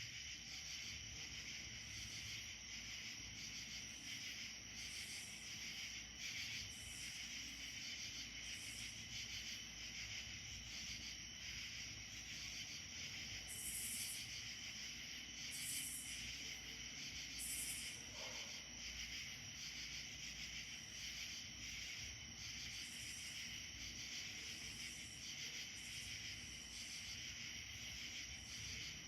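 Insect chorus: a steady, continuous high trilling, typical of crickets, with shorter, higher-pitched buzzing bursts from other insects every second or two.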